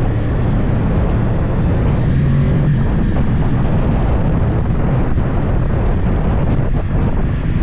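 Yamaha YZF-R1 crossplane inline-four engine running through a full Akrapovič exhaust while the motorcycle is ridden, with wind rushing over the microphone.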